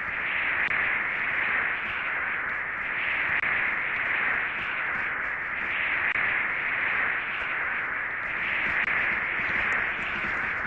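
Steady rushing noise that swells and eases every second or two, with no distinct tones or clicks.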